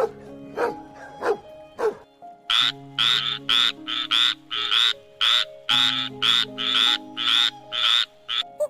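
Frog croaking. A few short calls come first, then a rapid, even run of croaks starts about two and a half seconds in, two or three a second. Background music plays underneath.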